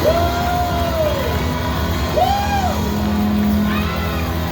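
Live rock band holding a steady amplified chord at the close of a song, with several separate rising-and-falling whoops over it.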